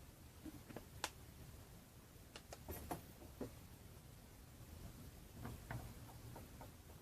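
Faint, scattered small clicks and light taps, like small hard objects being handled, in a cluster a couple of seconds in and again near the end, over a quiet low hum.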